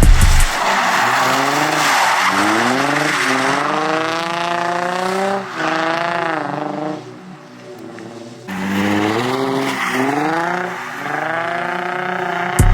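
Nissan 350Z's 3.5-litre V6 revving up and falling back again and again while sliding, with tire squeal from the rear wheels, as in a drift. The engine drops quieter for about a second and a half near the middle before revving hard again.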